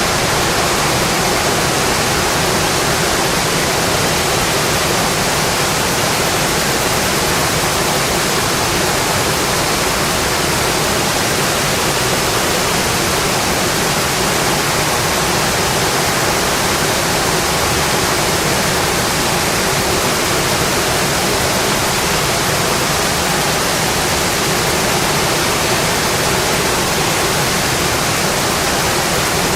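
Rain falling steadily on a metal roof: a loud, even, unbroken hiss.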